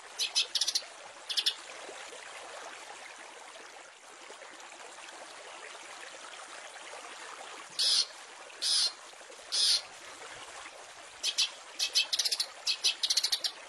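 Long-tailed shrike (cendet) giving short, harsh, high-pitched calls in clusters over a steady hiss. The calls stop for several seconds, then come back as three longer harsh notes about a second apart. A rapid burst of chattering calls follows near the end.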